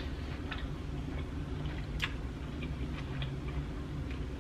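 Close-miked chewing with the mouth closed, with a few sharp wet mouth clicks and smacks, the sharpest about two seconds in.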